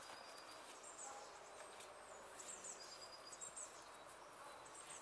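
Quiet outdoor ambience with small birds calling: short, thin, high chirps repeated every second or so over a faint steady hiss.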